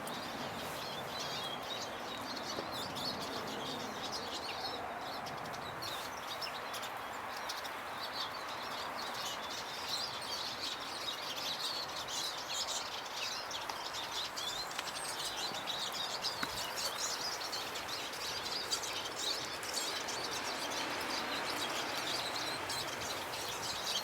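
Small garden songbirds such as finches and tits chirping and twittering: many short, high calls over a steady background hiss.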